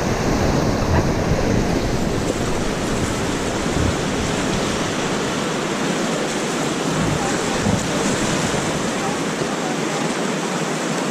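Rushing whitewater of the Kicking Horse River, a steady loud hiss of water heard from the raft, with low wind rumble on the microphone that eases about two-thirds of the way through.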